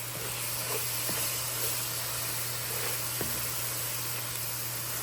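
Ground turkey sizzling in a cast iron skillet: a steady hiss with a few faint pops.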